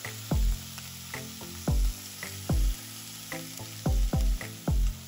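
Beef cubes sizzling steadily as they sear in a hot cast-iron skillet. Over it runs background music with a deep kick-drum beat about every 0.8 s, the loudest sound.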